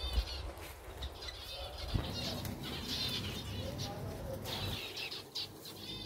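Small aviary birds chirping in quick repeated phrases, with wings flapping as birds fly about the aviary. Two dull knocks, one at the start and one about two seconds in.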